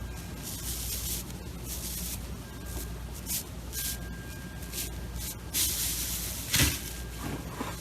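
Slime being squished and stretched by hand: a string of short, hissy, crackling bursts, with one louder squelch about six and a half seconds in.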